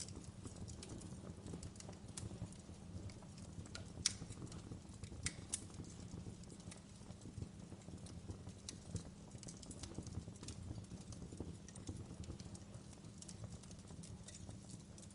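Wood log fire crackling in a fireplace: irregular sharp pops and snaps over a low, steady rumble of the flames. The loudest pop comes about four seconds in, with a couple more soon after.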